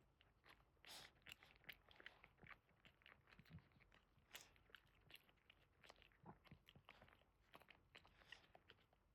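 Faint, irregular wet clicks and smacks of dogs' mouths at close range: a whelping Boston terrier and her newborn puppies.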